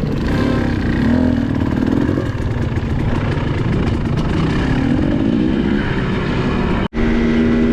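Dirt bike engine running, its pitch rising and falling with the throttle. It cuts out abruptly for an instant about seven seconds in, and a steadier engine note follows.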